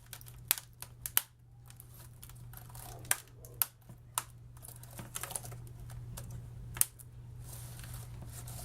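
Replacement keyboard being pressed into an HP Pavilion 17 laptop's deck, its plastic retaining clips snapping into place: a string of sharp separate clicks, several close together in the first second and a half, then single clicks spaced a second or more apart. A steady low hum runs underneath.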